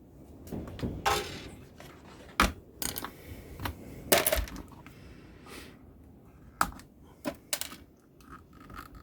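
Irregular clicks and light knocks of small tools and components being handled and set down on a workbench, with a few louder clatters about a second in and about four seconds in.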